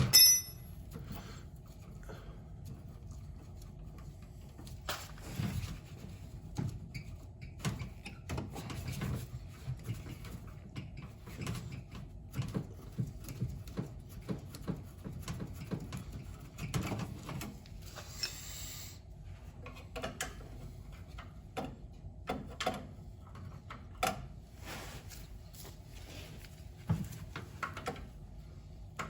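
Irregular clicks, knocks and rubbing of hand tools and metal parts being handled while working on an old gas boiler's dirty burners, with a brief hiss about eighteen seconds in.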